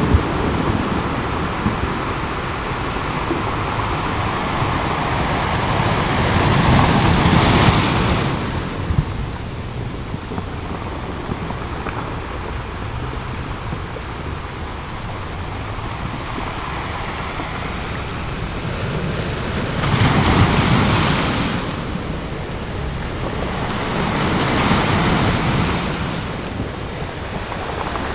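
Ocean surf: a steady wash of waves, with three louder surges as waves break, about seven, twenty and twenty-five seconds in.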